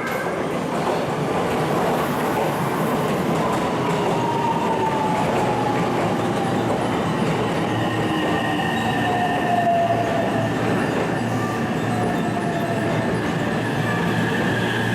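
Electric passenger train running along the platform, its wheels squealing on the rails with a steady high squeal. A motor whine falls slowly in pitch, as when the train is slowing.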